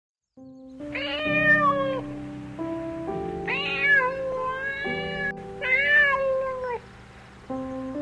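A cat meows three times, each call about a second long, rising then falling in pitch, over background music of held chords.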